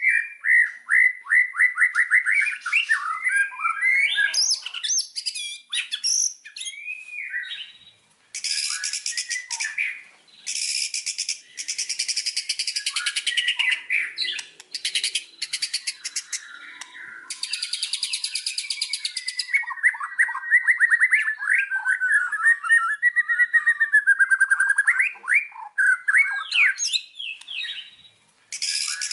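White-rumped shama (murai batu) in full, continuous song: quick runs of whistled notes, long stretches of harsh rapid rattling in the middle, then a long fast series of sliding notes.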